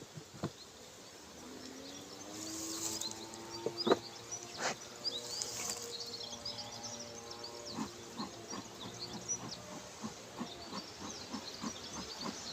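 Honeybees buzzing around an open hive, their hum sliding up and down in pitch as they fly past. There are a few sharp knocks in the first five seconds and a quick run of faint clicks in the second half.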